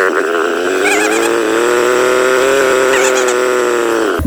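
Yamaha TT-R230 dirt bike's single-cylinder four-stroke engine running under throttle: its note dips at the start, then climbs and holds steady.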